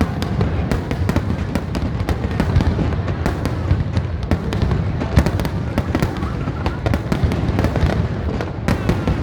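Fireworks display: a dense, rapid succession of bangs and crackles over a continuous low rumble.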